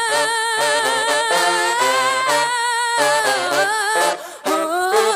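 A female singer holding and running through wordless sung notes with a wide vibrato, over sparse low accompaniment, with a short break about four seconds in.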